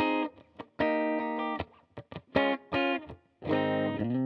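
Electric guitar played through a Line 6 Helix amp-modeller patch: a few ringing chords and notes with short gaps between them, then a quicker run of changing notes near the end.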